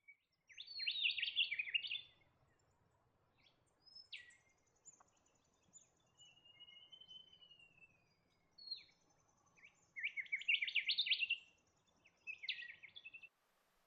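Brown falcon cackling: three bursts of rapid harsh chattering notes, one at the start and two close together near the end. Between them, a slow gliding whistle and faint high twittering from other birds.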